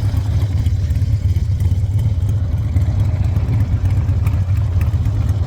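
An engine rumbling steadily at a low, even pitch.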